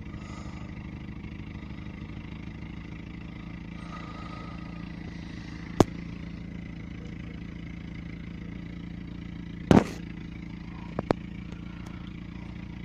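Mercedes-Benz W124's M102 four-cylinder petrol engine idling steadily, cold from a start at -13 °C. A few sharp clicks break through: one about six seconds in, a louder short knock near ten seconds, and two quick clicks just after.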